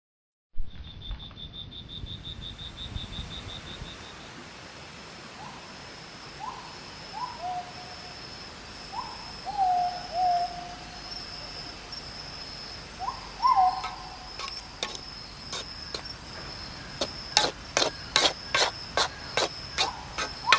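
Tropical forest ambience starting abruptly about half a second in: insects buzzing and trilling steadily at a high pitch, with an animal repeating a short swooping hoot-like call several times. Many sharp clicks crowd in over the last few seconds.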